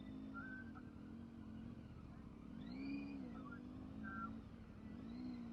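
Motorcycle engine running at a steady pitch, with two brief revs that rise and fall, one about three seconds in and another near the end.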